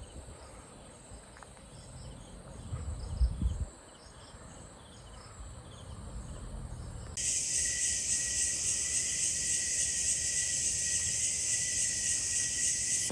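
Insects calling: at first a faint pulsing chorus with a brief low rumble about three seconds in, then, cutting in suddenly about halfway through, a much louder, dense, steady high-pitched insect chorus that stops abruptly at the end.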